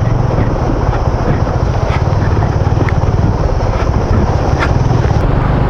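Motorcycle engine running steadily while riding on a rough road, with wind buffeting the microphone.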